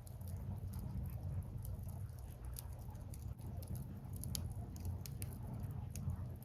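Firewood burning in a bonfire, crackling with scattered sharp snaps and pops over a steady low rumble.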